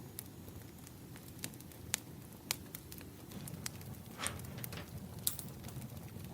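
Firewood burning and crackling: irregular sharp pops and snaps over a low steady rumble.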